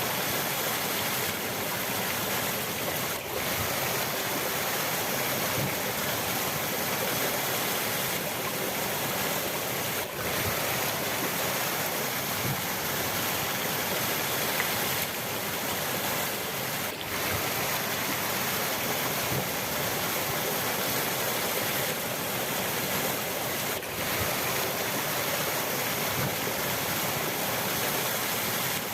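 A river's water rushing steadily, an even wash of noise with no break, briefly dipping in level about every seven seconds.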